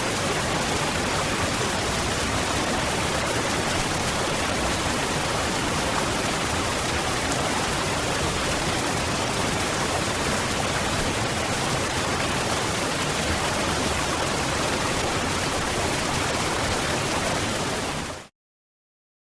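Waterfall: a steady, even rush of falling water that cuts out abruptly to silence a little over a second before the end.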